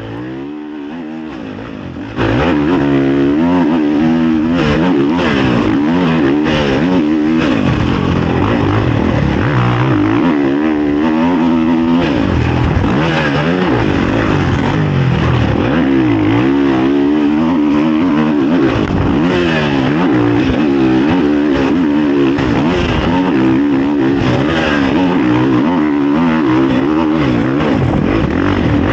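Honda CRF450 motocross bike's single-cylinder four-stroke engine, heard from the rider's onboard camera, revving up and down continuously under hard riding, with gear changes and throttle on and off. It jumps louder about two seconds in, with occasional clattering knocks from the bike.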